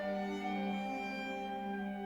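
Classical orchestral music, led by strings playing held notes.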